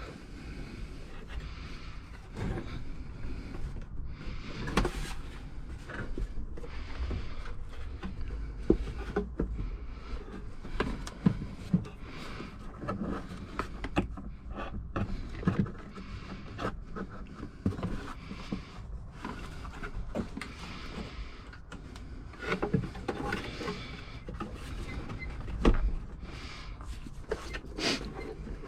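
Irregular knocks, clicks and rattles of handling and fitting work in a small space, over a steady low rumble, with a louder knock about 26 seconds in.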